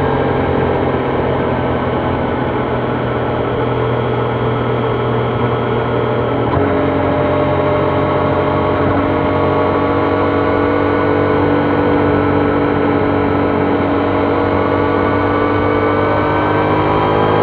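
Triumph Trident 660's inline three-cylinder engine running under way, its pitch easing down at first and changing abruptly about six and a half seconds in, then rising steadily near the end as it accelerates.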